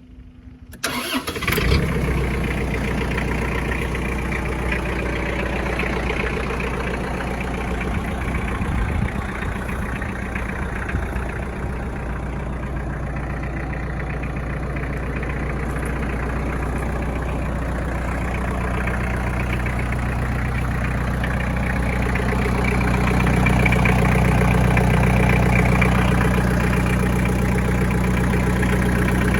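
Iseki TG5470 tractor's diesel engine cranked and catching about a second in, then running steadily at idle. It grows somewhat louder about three-quarters of the way through.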